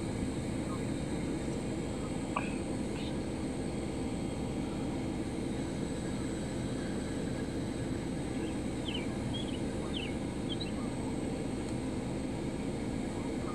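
Steady low rumbling noise, like wind on the microphone or a distant engine, with a few faint short bird chirps about two seconds in and again a few times near the end.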